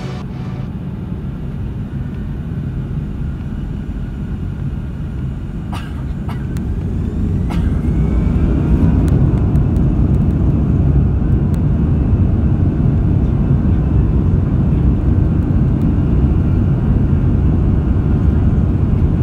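Airbus A340-300 jet engine and airframe rumble heard inside the cabin, growing louder from about seven seconds in, with a faint rising whine as the engines spool up. A couple of light clicks about six and seven seconds in.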